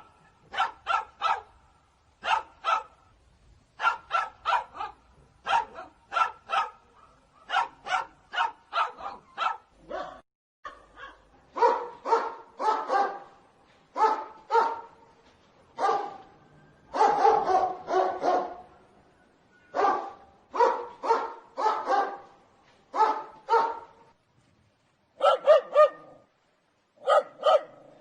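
Dog barking repeatedly in quick runs of three to six sharp barks, with short pauses between the runs.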